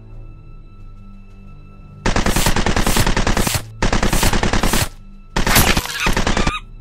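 Three bursts of rapid automatic gunfire, about a second or more each, over quiet background music.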